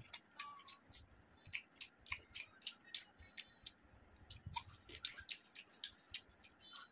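Close-up chewing of food, with many short crisp crunches and wet mouth clicks, several a second.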